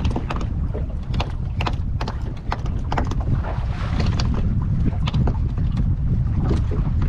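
Wind buffeting the microphone in a steady low rumble, with a scatter of short, irregular clicks and knocks.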